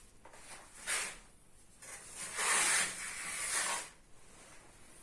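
Putty knife scraping as wall filler is spread onto a primed wall: a short stroke about a second in, then a longer one from about halfway to near the end.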